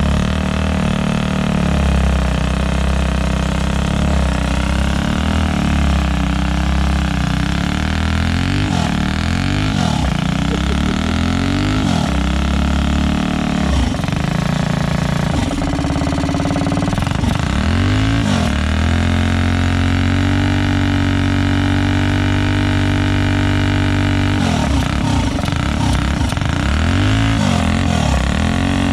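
Modified Predator 212 single-cylinder four-stroke engine with a header pipe, revved hard on a mini bike during a burnout: the pitch climbs and drops several times and is held high for about five seconds in the middle.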